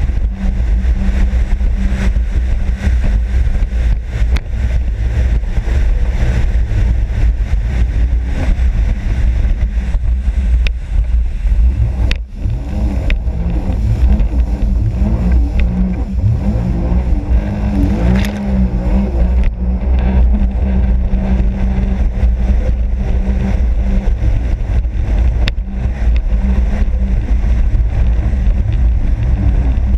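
Sea-Doo RXP-X 260 jet ski running at speed, its engine rising and falling in pitch between about 13 and 19 seconds as the throttle changes, over a steady heavy rumble.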